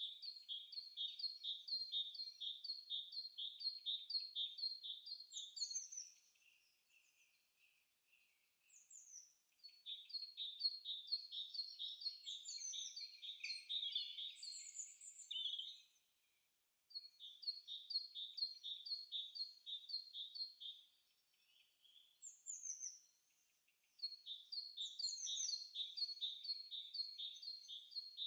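Bird chirping: a quick, even series of high chirps, about two or three a second, with a few higher notes mixed in, stopping and starting several times.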